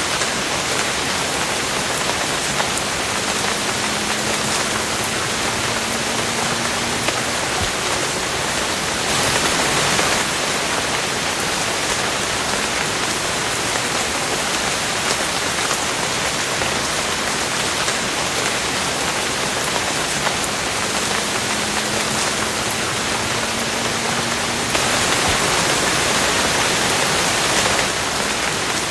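Steady rain falling, an even hiss of many drops, with two brief heavier surges, about nine seconds in and again near the end.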